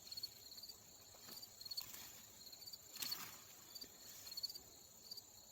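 Crickets chirping steadily in short repeated pulses, with a continuous high insect drone, plus a few faint scrapes, the clearest about three seconds in.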